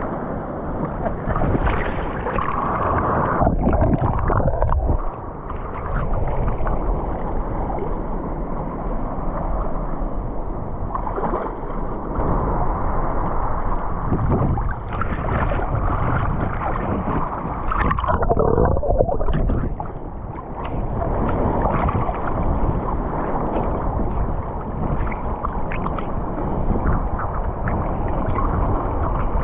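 Sea water sloshing and gurgling steadily, swelling and easing unevenly.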